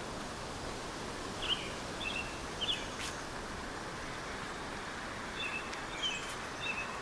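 Small birds giving short high chirps, a few spaced out in the first half and a quicker run of them near the end, over a steady even hiss of outdoor ambience. A single sharp click comes about three seconds in.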